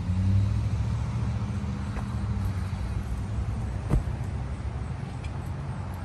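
An engine running steadily at idle, a low even hum, with a single sharp click about four seconds in.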